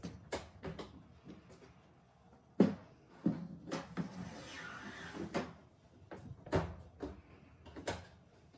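A series of knocks and clatters from a meal tray and a cabinet door being handled. The loudest is a sharp knock about two and a half seconds in, and there is a brief scraping rustle around four to five seconds.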